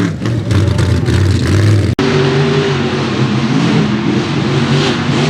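Mega truck engines revving hard, their pitch swinging up and down again and again; about two seconds in the sound cuts abruptly to another engine revving in short up-and-down swells.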